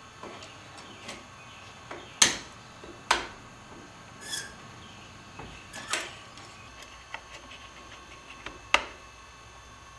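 Small metal router-lift parts, the twist-lock insert rings and starting pin, clicking and tapping as they are handled and set into the aluminium lift plate. There are a handful of sharp clicks, the loudest about two, three, six and nine seconds in, with softer taps between them.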